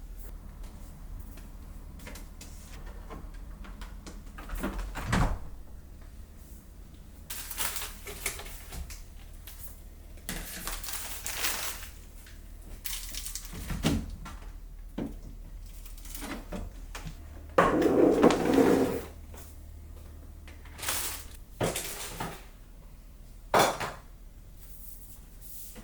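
Kitchen containers, trays and drawers being handled while a refrigerator is organized: scattered knocks and clatters, with a louder burst of clattering about two-thirds of the way through.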